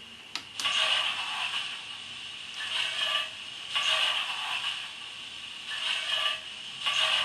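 Hornby model steam locomotive's DCC sound decoder playing slow, uneven exhaust chuffs through its small speaker, starting about half a second in after a click.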